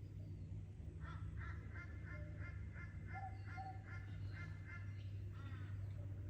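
A bird gives a run of harsh, evenly repeated calls, about three a second, starting about a second in and lasting nearly four seconds. Two short clear notes from another bird sound in the middle, and another harsh call follows near the end, over a steady low rumble.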